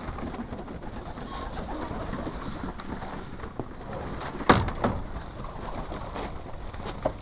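Racing pigeons cooing in their loft, a steady murmur of birds, broken by a few sharp knocks, the loudest about four and a half seconds in and another near the end.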